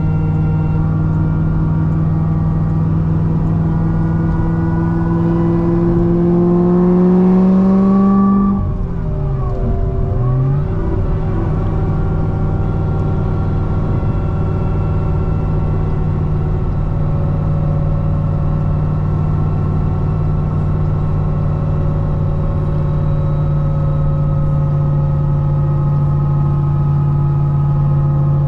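Supercharged 6.2-litre LS9 V8 of a C6 Corvette ZR1 fitted with a Kong supercharger, driving at highway speed. The engine drones steadily, pulls harder with its pitch climbing for a few seconds, and drops sharply about eight seconds in. Its pitch dips and comes back up, then it settles into a steady cruise.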